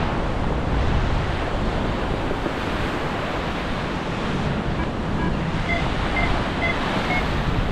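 Strong wind buffeting the GoPro microphone, a steady rushing roar heaviest in the low end, its foam windscreen worn out and no longer blocking it. In the second half a run of short high electronic beeps comes through, about two a second.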